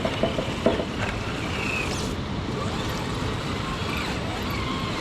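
Traxxas TRX-6 6x6 RC crawler's electric motor and drivetrain whirring steadily as it works against wet rock, with a few short knocks in the first second.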